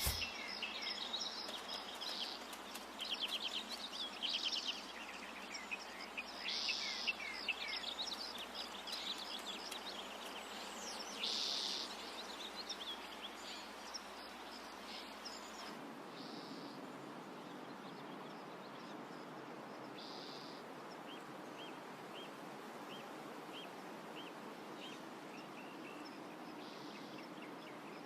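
Outdoor ambience with birds chirping and trilling over a steady soft hiss. About halfway through, the background changes and a single bird gives a short chirp, repeated at a steady pace.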